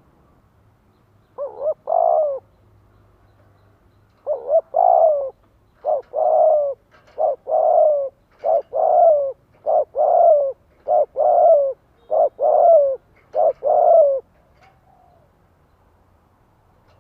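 Spotted dove cooing: a series of short two-part coos, a brief note followed by a longer one, one phrase about a second and a half in, then eight more in a steady run about once a second until near the end.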